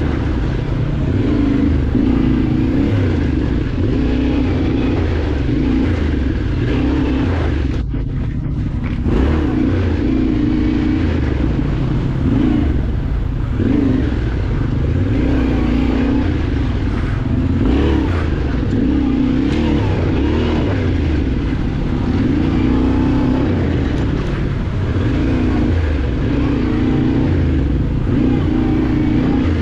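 Yamaha Ténéré adventure motorcycle engine being ridden hard off-road. The engine note climbs and falls every second or two as the throttle is opened and closed. It briefly goes off-throttle a little after eight seconds in.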